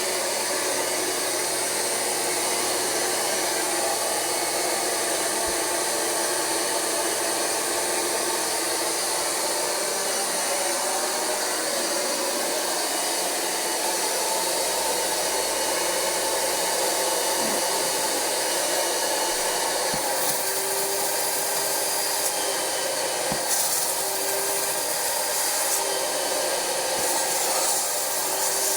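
Rug Doctor carpet cleaner running with its Universal Hand Tool, a steady high-pitched vacuum-motor whine as it extracts from upholstery.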